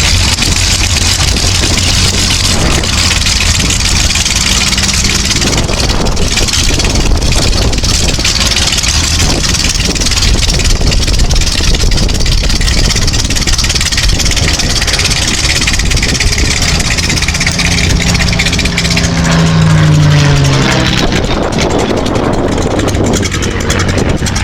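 Silver Spitfire's Rolls-Royce Merlin V12 engine running through its display. About twenty seconds in, its pitch falls sharply as it passes close by.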